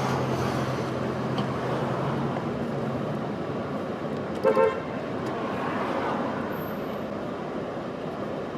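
Street traffic noise with a steady low hum, and a short double toot of a car horn about four and a half seconds in.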